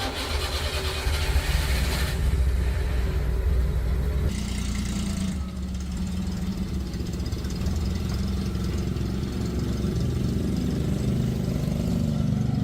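Restored Stihl 08 chainsaw's two-stroke engine running steadily, its sound shifting a few times in the first five seconds.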